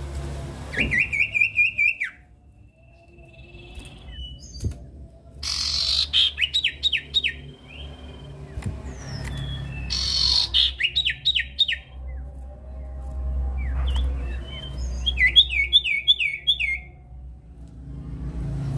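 Common iora (sirtu, cipoh) singing: four bursts of rapid repeated whistled notes, each a second or two long, with short gaps between, over a steady low hum.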